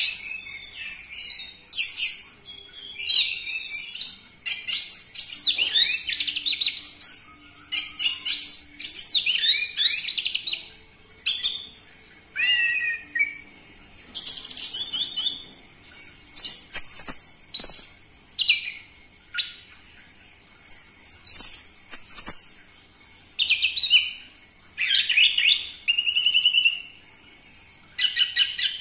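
Orange-headed thrush singing loudly: a varied song of rapid, high whistled and trilled phrases, each a second or two long, with short pauses between them.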